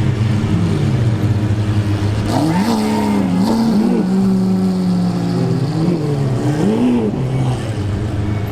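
Sports car engine revving several times, its pitch rising and falling with each blip of the throttle, held at a steady note for a second or so in the middle.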